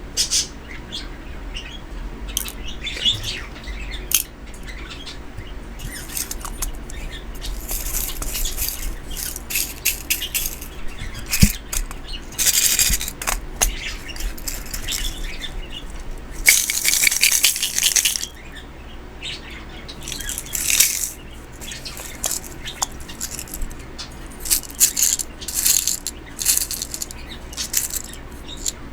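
Hands handling small craft materials: irregular bursts of rustling with scattered light clicks and clinks.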